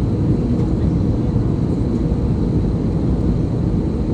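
Steady low rumble of an aircraft, even and unbroken.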